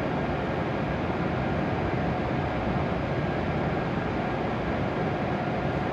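Steady hum and whir of a W7 series Shinkansen train standing idle at the platform, with a few faint steady tones over an even noise.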